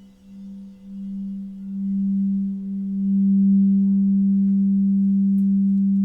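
Singing bowl sounding a low, pure hum that swells in waves over the first few seconds, as when the rim is rubbed with a mallet, then holds loud and steady. A fainter higher overtone joins about a second in.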